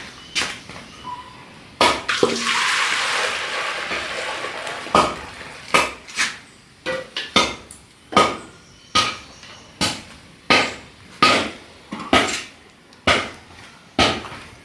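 Food preparation with pots and utensils: water pours or splashes for about three seconds, then a steady run of knocks, about one every three quarters of a second, with clinks of cookware.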